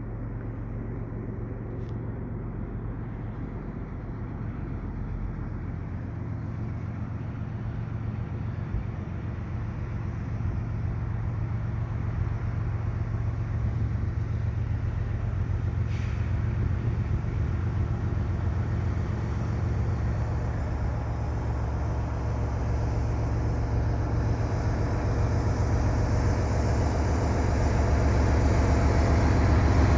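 GE ES44DC diesel-electric locomotive leading a freight train, its engine drone growing steadily louder as it approaches.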